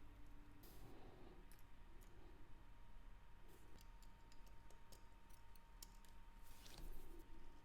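Faint, scattered light clicks of small metal tools and watch parts being handled, with a slightly louder cluster near the end, over a low steady hum and a thin steady tone.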